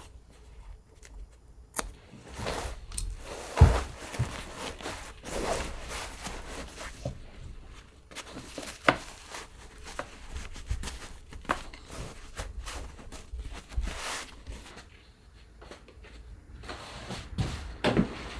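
Scattered knocks, taps and rustling from hand upholstery work on a wooden dining chair, with a few sharper knocks standing out.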